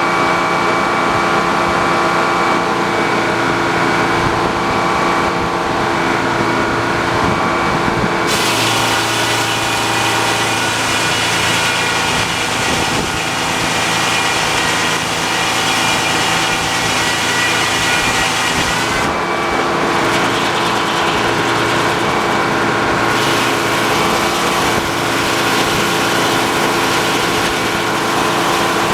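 The engine driving an old sawmill running steadily, with the saw blade cutting through a log twice, adding a bright hiss from about 8 to 19 seconds in and again from about 23 seconds.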